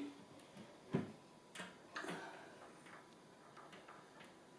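Light clicks and taps from a wood screw and fingers being fiddled against timber while the screw is started by hand, with one sharper knock about a second in.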